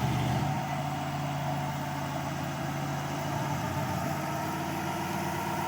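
Truck engine running steadily under load as it pulls against another truck in a tug of war; the engine note eases slightly about half a second in and then holds steady.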